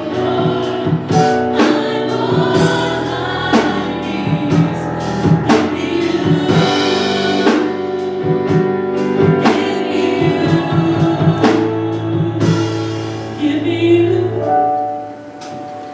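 Live gospel worship music: singers over a band with a drum kit keeping a steady beat. The drums drop out about twelve seconds in and the music softens near the end.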